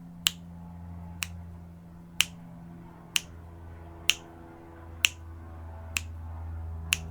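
Short, sharp ticks, evenly spaced about once a second, eight of them, keeping time through a 12-count breath hold, over a steady low hum.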